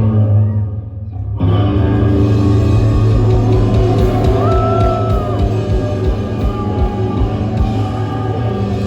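Live rock band playing loud, with electric guitar and drums over a held low bass note. The band drops out briefly near the start, leaving mostly the low note, then comes back in full about a second and a half in.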